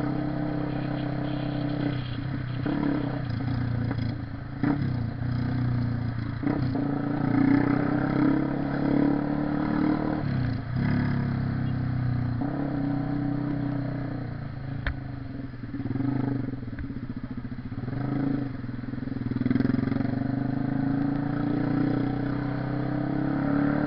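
Honda CB 300R motorcycle's single-cylinder engine running under way, its note rising and easing with the throttle and dropping briefly a few times.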